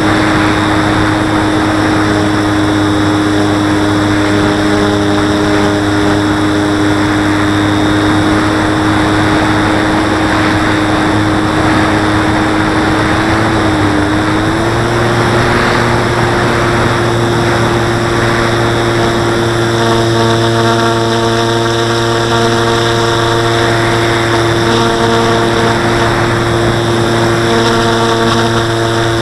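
Radio-controlled model plane's motor and propeller running in flight, a steady tone over the rush of air, which dips briefly about 14 seconds in and then holds a little higher.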